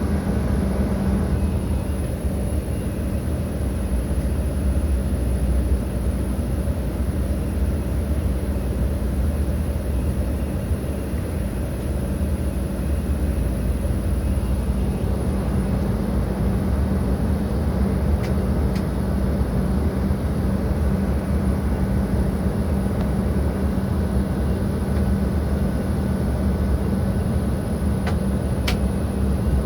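Steady, unchanging noise of an Embraer 175 jet airliner: a constant rumble with a low hum and a faint high whine above it. There are two faint clicks late on.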